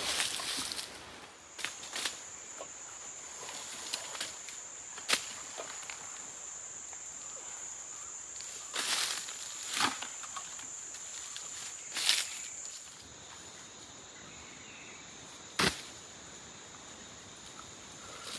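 A steady high-pitched insect call over rainforest background hiss, stopping about two-thirds of the way through while a fainter, lower call carries on. About seven short sharp knocks or cracks are scattered through it and are the loudest sounds.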